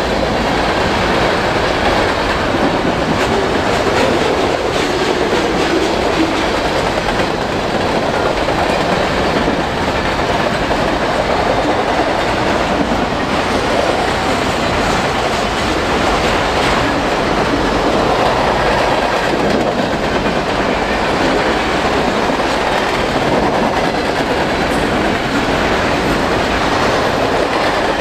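CPKC freight train cars rolling steadily past, steel wheels running on the rails with a continuous loud noise.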